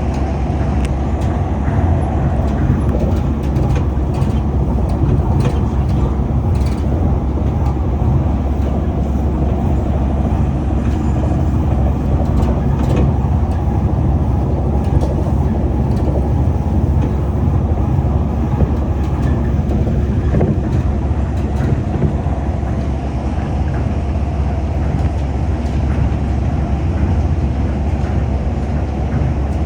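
Tokyo Monorail car running at speed, heard from inside the cabin: a steady low rumble from its rubber tyres on the concrete guideway, with a few faint clicks.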